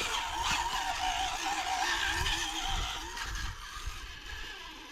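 Rock crawler's engine running on the course, its pitch wavering slightly, under a continuous noise that fades somewhat after about three seconds.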